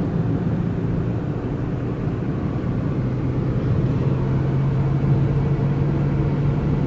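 A car's engine and road noise heard from inside the cabin with the windows up: a steady low drone, with a low hum growing stronger about three seconds in.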